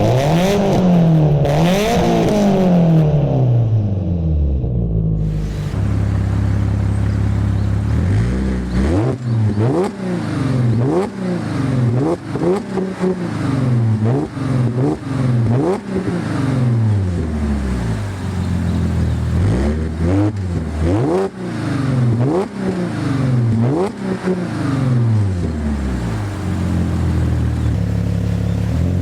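Car engine and exhaust free-revving while stationary. A few long revs come first, then the engine settles briefly before a run of short throttle blips, about one a second, each climbing and falling in pitch.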